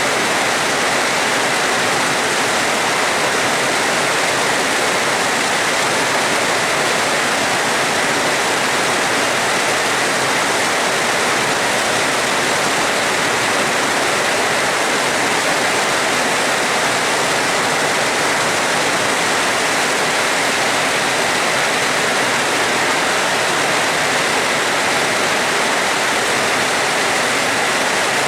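Heavy rain falling steadily as an even hiss, with no thunder.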